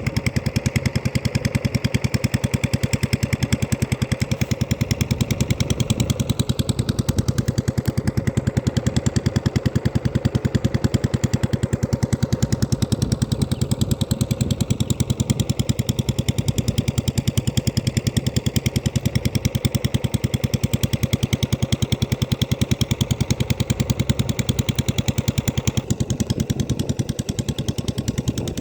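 Diesel engine running a water pump that draws water from a canal, chugging steadily with rapid, even exhaust beats.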